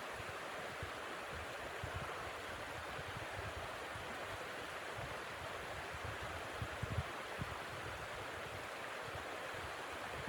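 Steady blizzard wind with an even rushing hiss, and irregular low gusts buffeting the microphone.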